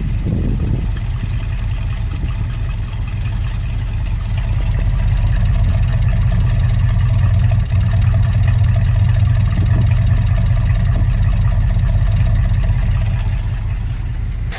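1978 Chevrolet K5 Blazer's carbureted small-block Chevy V8 idling steadily while warming up from a cold start on a low step of the fast idle cam, with the choke partly open; the idle is a little low for that stage of the warm-up.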